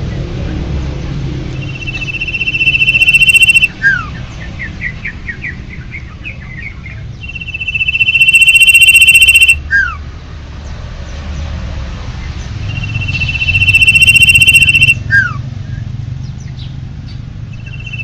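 Common iora (cipoh) singing: three long, steady whistled notes that swell in loudness, each ending with a short falling note, and a quick run of about ten short chirps between the first two whistles. A low rumble runs underneath.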